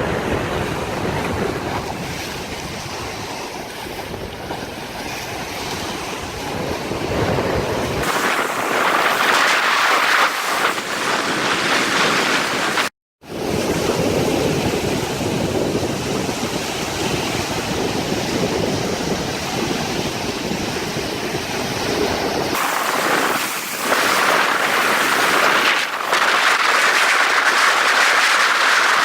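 Outdoor wind and water noise: a steady rushing hiss with wind buffeting the microphone, its character changing abruptly several times as shots are cut, with a brief dropout to silence about halfway through.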